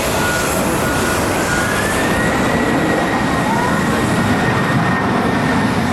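Jet airliner engines running loud and steady, with a thin whine that rises slightly about two seconds in and then holds.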